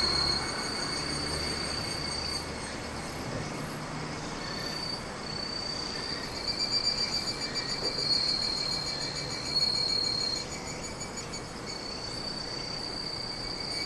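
Night insects, crickets, chirping in a continuous high-pitched trill that breaks off briefly and resumes several times, with several insects calling at different pitches. A low background rumble is heard in the first few seconds.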